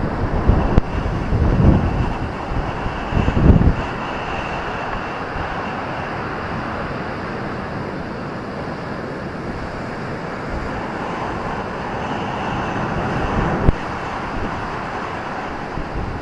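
Ocean surf breaking and washing up a beach: a continuous rushing hiss that swells again near the end. Wind buffets the microphone in the first few seconds, and there is one short sharp knock near the end.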